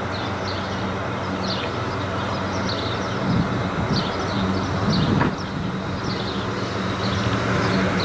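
A vehicle engine runs steadily at a low, even pitch over a wash of wind and outdoor noise. Short high chirps repeat throughout.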